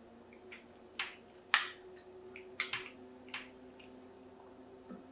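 Close-miked chewing of a mouthful of baked mac and cheese: a string of short, wet mouth clicks and lip smacks at an irregular pace, over a faint steady hum.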